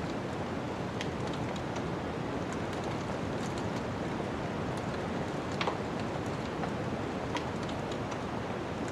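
Wood fire crackling with scattered sharp pops, one louder pop a little past halfway, over a steady rushing noise of snowstorm wind.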